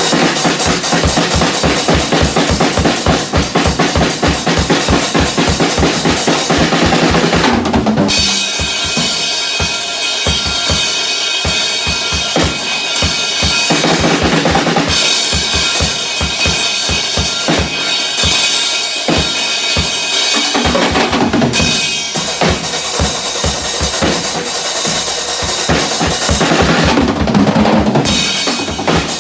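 Drum kit played hard, its heads cranked tight rather than tuned: a fast, even run of bass drum strokes with snare hits, then from about eight seconds in washing, ringing cymbals over continued beats. The Evans heads are worn and bubbled.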